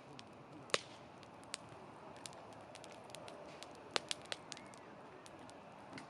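Wood campfire crackling over a steady low hiss, with sharp pops scattered through it and a quick run of three pops about four seconds in.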